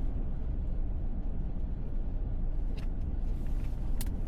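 Steady low road and tyre rumble inside the cabin of a moving Tesla Model S, an electric car with no engine note, with two short clicks near the end.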